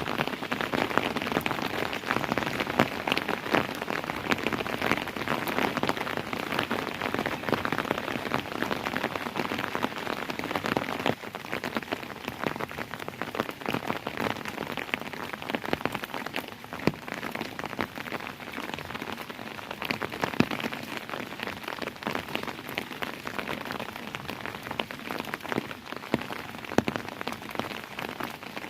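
Steady rain falling, with many separate drops ticking sharply on a hard surface over the continuous patter; it eases slightly about a third of the way through.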